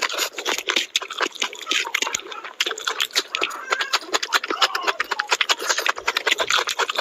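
Close-miked eating sounds: rapid, wet chewing and lip smacking of curry and rice eaten by hand, with a bite into a raw onion slice about four seconds in.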